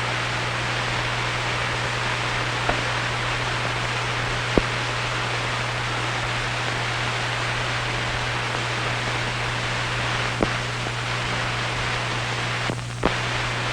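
Steady hiss and low hum of an old optical film soundtrack, with a few faint clicks and pops scattered through it.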